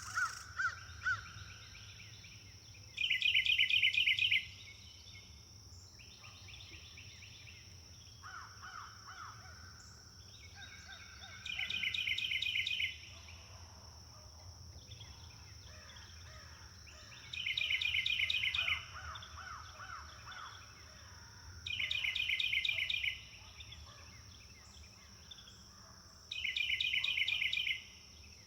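Wild birdsong: one bird repeats a fast phrase of rapid high notes five times, every four to six seconds, with softer calls from other birds in between and a steady high hiss underneath.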